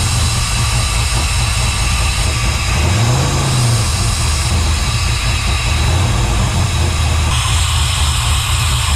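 LS1 V8 idling just after a test start on a newly fitted FiTech 92 mm throttle body, with the revs lifting briefly about three seconds in. The idle stepper motor is still a little noisy, which the owner puts down to a hole drilled in the throttle body.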